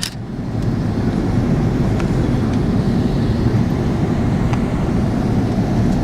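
Airbus A330 cabin noise in flight: a steady low rumble of the engines and airflow during the descent. There is a sharp click at the very start.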